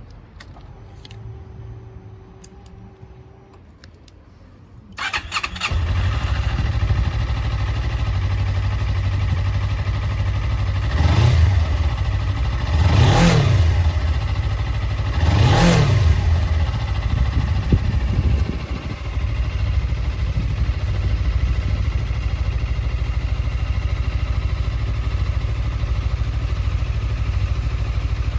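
A Suzuki GSX250R's 248 cc parallel-twin engine is started about five seconds in and settles into idle. It is revved three times in quick blips, each rising and falling, then idles steadily.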